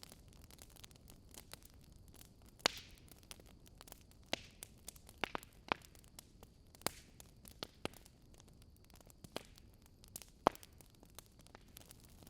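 Wood fire crackling: irregular sharp pops and snaps from burning logs over a soft steady hiss, with the loudest pops a few seconds in and again about ten seconds in.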